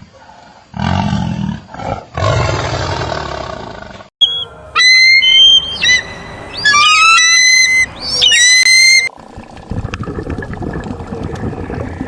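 A big cat, lion or tiger, roaring twice. Then comes a run of loud, shrill, whistle-like calls that sweep upward in pitch, followed by a steady low rumbling noise.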